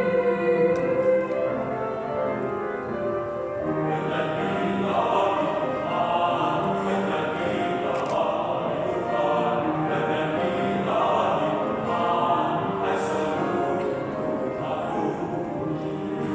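Youth church choir singing in parts. A held chord opens, then about four seconds in the choir moves into busier phrases that swell and ease every second or two.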